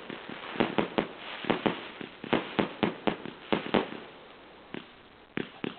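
Multi-calibre fireworks battery firing: an irregular run of sharp bangs, several a second, with crackling between them. The bangs thin out for about a second past the middle, then pick up again near the end.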